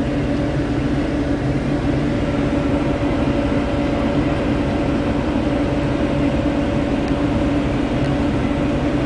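Steady hum and low rumble inside a parked vehicle's cab, typical of its engine idling, holding one even pitch throughout.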